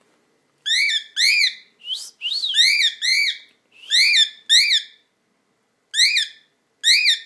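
Cockatiel calling loudly over and over: about ten short, shrill notes, each rising and falling in pitch, coming in quick runs with a brief pause about two-thirds of the way through.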